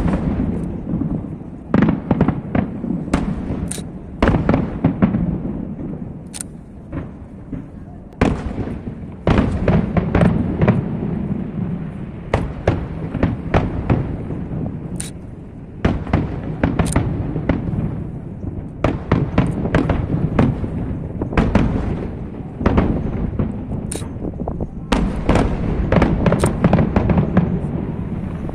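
Aerial fireworks bursting in a dense, continuous barrage: many sharp bangs and crackles, one after another, over a steady low rumble.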